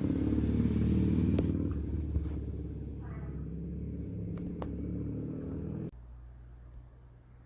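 Fire engine's diesel engine idling with a steady low rumble, with a few sharp clicks over it. About six seconds in the rumble cuts off abruptly, leaving a quieter low hum.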